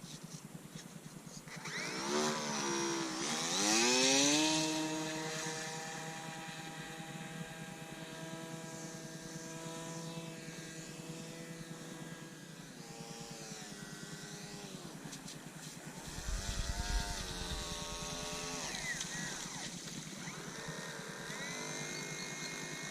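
RC model seaplane's motor and propeller buzzing. It climbs steeply in pitch about two seconds in, holds a steady note, then sags and wavers in pitch as the plane flies around. A low rumble of wind on the microphone comes in about two-thirds of the way through.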